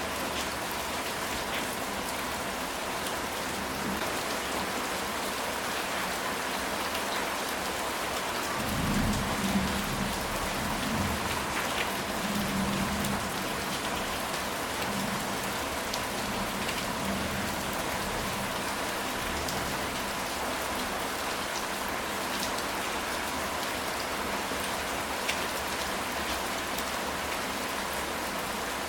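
Steady rain falling on a ceramic tile roof, with a low rumble of thunder about nine seconds in that dies away over a few seconds.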